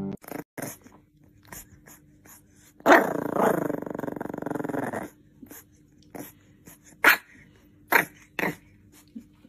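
A dog growling once for about two seconds, with a few short, sharp sounds before and after it.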